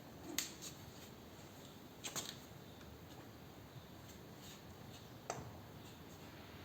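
Faint clicks and knocks of hand tools and parts being handled on a motorcycle in a workshop: a single tap, a quick cluster of taps about two seconds in, and another tap near the end.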